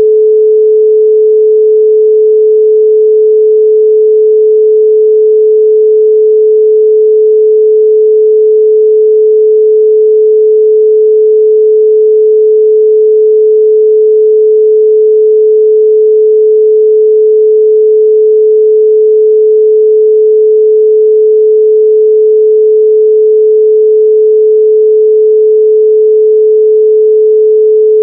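A loud, steady 432 Hz pure sine tone, one unchanging pitch with no other sound.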